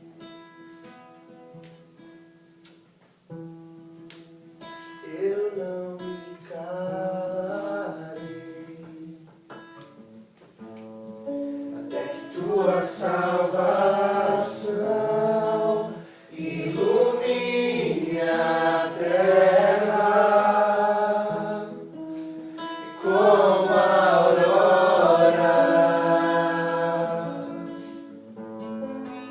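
Acoustic guitar accompanying singing of a worship song. The guitar plays alone at first; voices come in about five seconds in and grow louder from about halfway.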